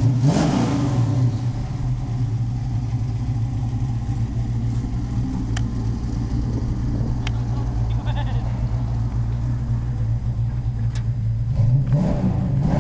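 1986 Chevrolet Monte Carlo's 500 hp roller-cam V8 running at idle, revved briefly right at the start and again near the end.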